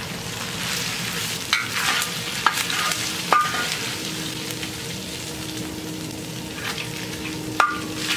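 Hash browns frying in hot grease on a steel plow disc, sizzling steadily while a metal spatula scrapes them across the pan and pushes them up the side. Several sharp scrapes and clinks of the spatula against the steel stand out over the sizzle.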